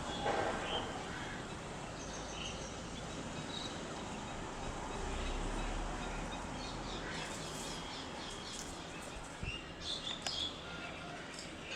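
Birds chirping and calling in short high notes over a steady background hiss, with quicker runs of chirps about two-thirds of the way in and near the end.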